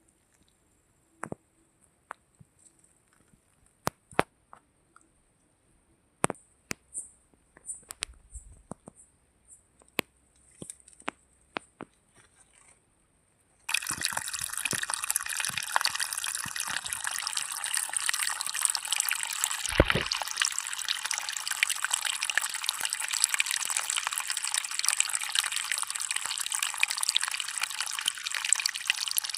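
Scattered sharp clicks and drips, then about halfway in a sudden cut to steady rushing water, like a stream or waterfall.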